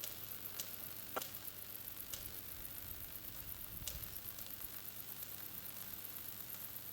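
Crackling and sizzling of corona discharge on the conductors of a 500 kV overhead power line, over a steady low hum, with a handful of sharper clicks.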